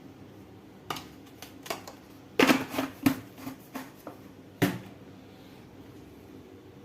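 A string of sharp clicks and knocks: parts of a drip coffee maker and its glass carafe being handled as it is set up to brew. The clicks are loudest in a quick cluster about two and a half seconds in, with one last sharp knock near five seconds.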